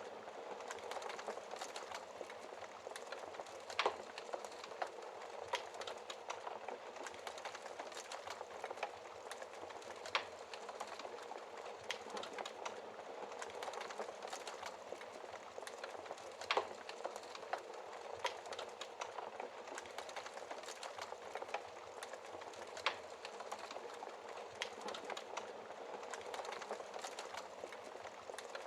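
Wood fire burning in a fireplace: a steady soft hiss of flames with frequent crackles and pops from the burning logs, a few sharper pops standing out about four, ten, sixteen and twenty-three seconds in.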